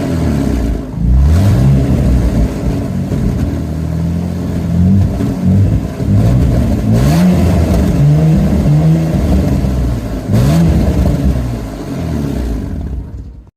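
3.6-litre V6 of a Cadillac CTS V-Sport revved repeatedly, the engine pitch rising and falling several times, with an exhaust leak on both pipes. The sound cuts off suddenly near the end.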